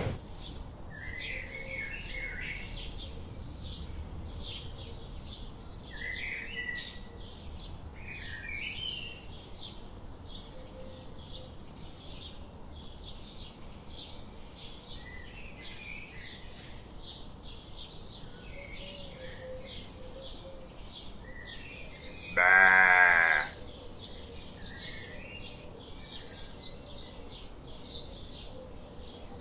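Birds chirping continually against an outdoor background hiss, with one loud animal call, wavering in pitch and lasting about a second, about three quarters of the way through.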